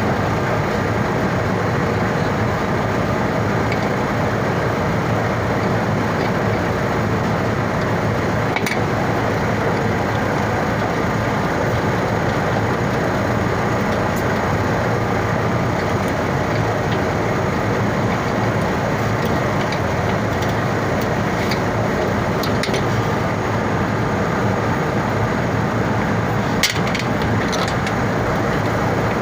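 Steady, loud machinery drone with a few short clicks, the sharpest one near the end.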